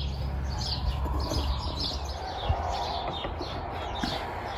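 Small birds chirping and twittering in many short calls, over a steady low rumble.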